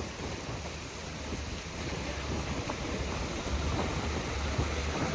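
Storm outside: a steady rushing hiss with wind gusting against the microphone in low rumbles.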